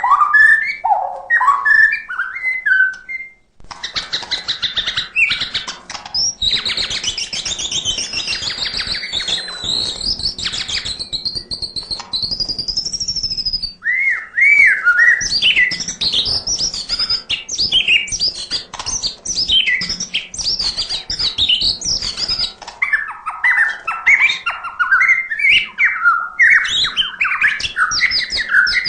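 White-rumped shama (murai batu) singing a long, varied song of clear whistles, fast high trills and chattering phrases, with mimicked calls of other birds worked in. The song breaks off briefly about three seconds in.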